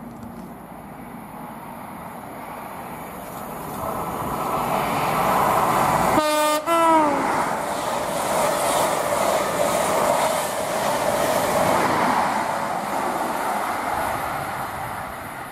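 A Midland Pullman HST, driven by Class 43 diesel power cars, passes at speed with a rising rush of wheel and engine noise. About six seconds in, its two-tone horn gives a short blast that drops in pitch as it goes by.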